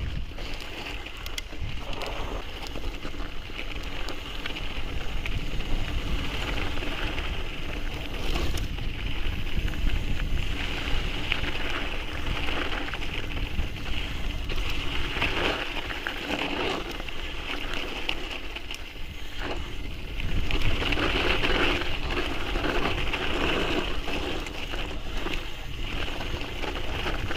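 Mountain bike descending a trail: wind buffeting the microphone in a steady rumble, with tyre noise and rattling from the bike, swelling in places as the speed picks up.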